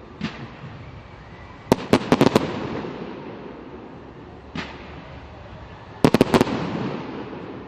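Fireworks bursting overhead. Two quick clusters of four or five sharp bangs, about two seconds in and again about six seconds in, each rumbling and echoing away. Single softer pops come in between.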